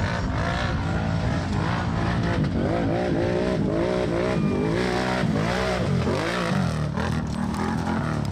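ATV engines racing on a dirt short track, several at once, revving up and down as they accelerate and back off.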